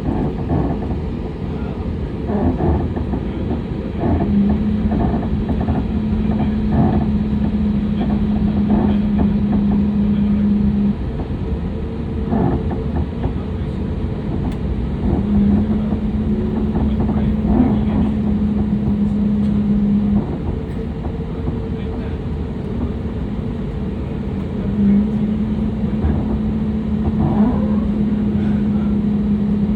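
Jet airliner cabin noise on the ground before takeoff: the engines running at low power under a steady rumble. A steady low hum switches on and off three times, with scattered light knocks.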